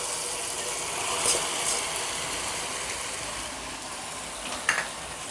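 Gongura masala sizzling steadily in a hot pan as the chicken is added, with a few light clicks and knocks.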